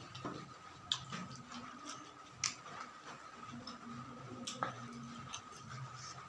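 A person chewing food close to the microphone: scattered wet mouth clicks and smacks, a few sharp ones about a second apart, over a low steady hum.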